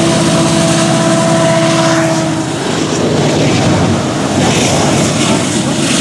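Freight train's diesel locomotives passing close beneath. A steady engine drone carries for the first two and a half seconds, then gives way to a louder, rougher rumble of the train rolling by.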